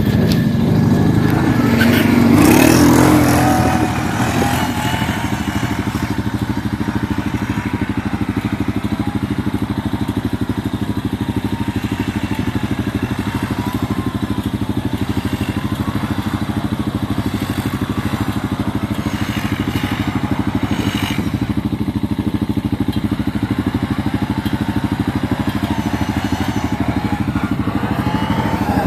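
Quad (ATV) engine running steadily, with a louder rev about two to four seconds in.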